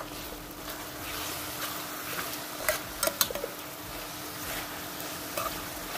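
Saltfish and seasoning sizzling as they fry in hot oil in a pot, with a utensil stirring and giving a handful of sharp clicks against the pot around the middle.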